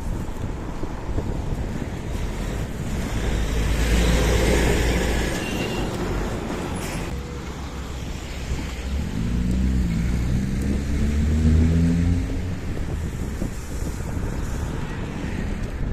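Wind rushing over the microphone of a moving electric scooter, with road traffic passing close by. About two thirds of the way through, a passing vehicle's engine rises in pitch.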